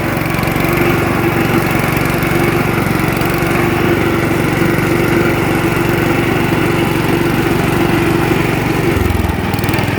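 Gravely front deck tractor's Kohler cast-iron engine running steadily, with a steady higher whine over it; the low note shifts about nine seconds in.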